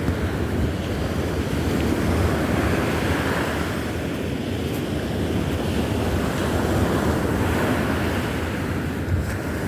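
Baltic Sea surf washing onto a sandy beach in a steady rush, with wind buffeting the microphone as a low rumble.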